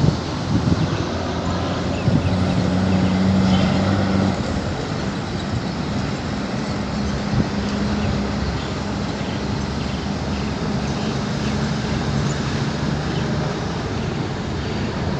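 Steady traffic and engine rumble with a low hum, as the noise of the Boeing 737-800 jet airliner on approach dies down from its loudest just before.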